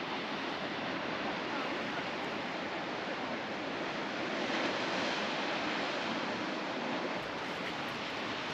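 Steady rushing of ocean surf and wind, swelling slightly about halfway through.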